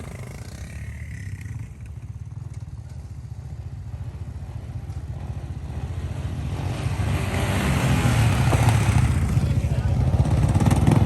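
Motorcycle and ATV engines running, growing louder from about halfway through.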